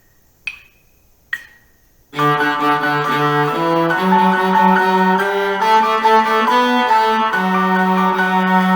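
Two count-in clicks, about a second apart. Then, about two seconds in, a cello exercise tune begins on bowed strings with accompaniment, moving in short eighth- and sixteenth-note figures.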